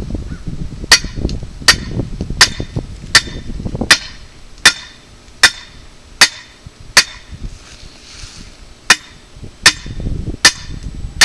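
Hammer blows on a galvanized steel pipe, driving it into the ground: a steady series of ringing metal-on-metal strikes about one every three-quarters of a second. The strikes pause for about two seconds past the middle, then carry on.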